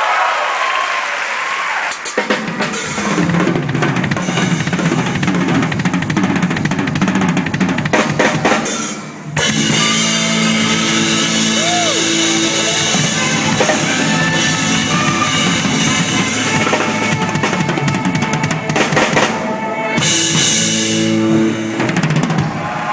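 Drum kit with bass drum and snare, played along with a band's rock music. The music drops briefly about nine seconds in, then carries on.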